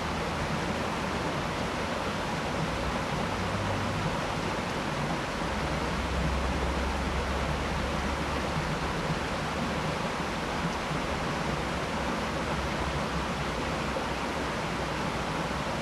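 Steady rush of a waterfall in heavy flow, the creek swollen by a lot of rain.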